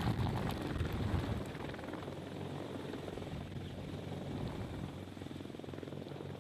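CH-53-series heavy-lift helicopter running, its rotors and turbines giving a rumbling chop. The sound is loudest for the first second or so, then settles to a steadier level.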